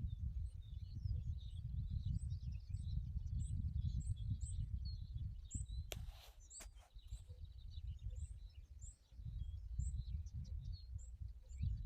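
Small birds chirping: many short, high calls repeating throughout, over a steady low rumble. There is a brief crackle about six seconds in.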